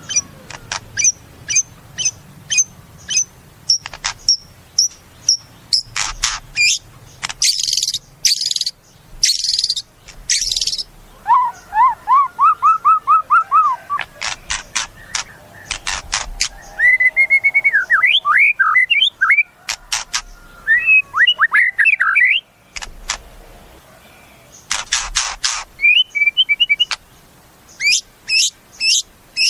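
White-rumped shama (murai batu) singing a long, varied song: strings of short, evenly repeated high notes, a few harsh rasping bursts, quick runs of rising notes and twisting warbled phrases.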